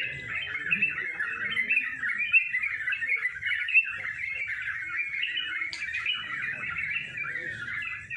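Several yellow-vented bulbuls (trucuk) singing at once in a dense, unbroken chorus of overlapping chirpy phrases, with a sharp click about six seconds in.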